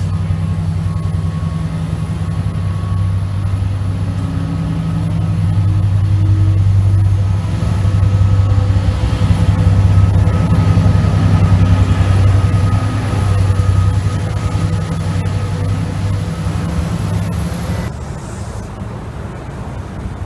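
Diesel locomotive and double-deck coaches of a passenger train moving past close by, with a deep, steady engine drone. The drone swells as the locomotive comes level, about halfway through, then eases off. The sound drops abruptly to something quieter a couple of seconds before the end.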